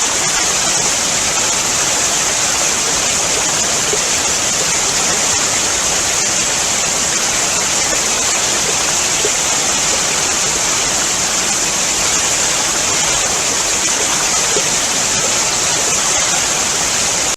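Waterfall: water pouring and splashing in a loud, steady rush that never lets up.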